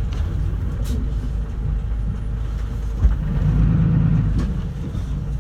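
Bus engine and road rumble heard inside the passenger cabin, a steady low drone that swells louder about three seconds in as the engine pulls harder.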